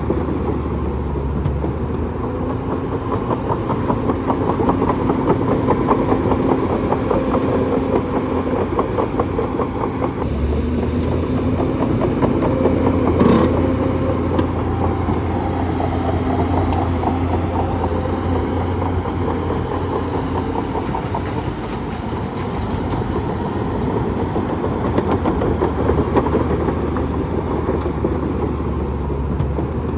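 Bulldozer's diesel engine running steadily with a deep, fast-pulsing drone, and a single sharp knock about 13 seconds in.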